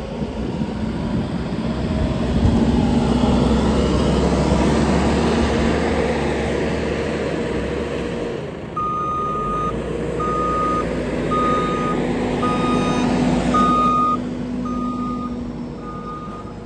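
JCB telehandler's diesel engine working hard pushing chopped maize up the silage clamp, its pitch shifting about halfway through; from there its reversing alarm beeps steadily about once a second as it backs off.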